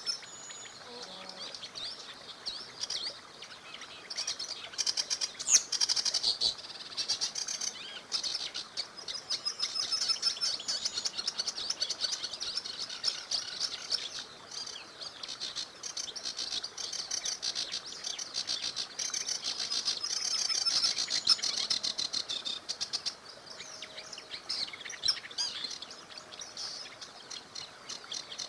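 Several small songbirds singing at once, a continuous chorus of rapid high trills and chirps.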